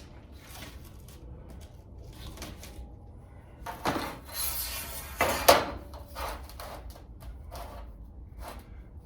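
Handling noises: scattered light clicks and knocks, with a louder scraping clatter about four seconds in and a sharp knock about five and a half seconds in.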